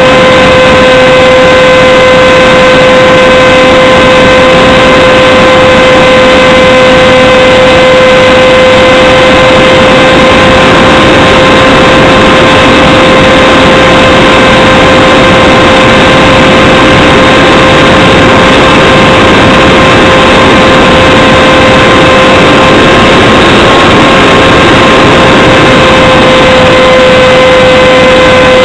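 Electric motor and propeller of a Radjet 800 RC plane running at a steady whine that holds one pitch throughout, under heavy wind rush, loud and overdriven as heard from a camera mounted on the plane.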